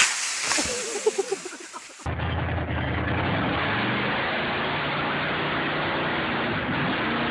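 A sudden crash or bang at the start, then, about two seconds in, a loud, steady vehicle engine noise that carries on.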